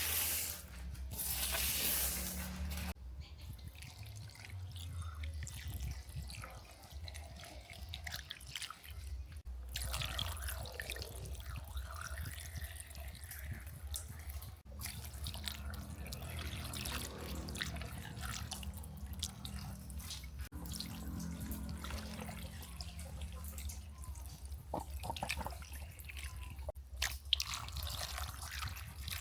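Water dripping and running off a 1:18 die-cast model car as it is washed, with a louder hiss for the first three seconds.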